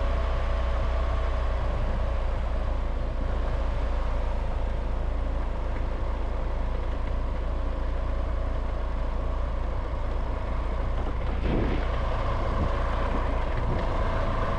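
Steady driving noise of a vehicle under way: a strong low rumble with a faint, even whine above it.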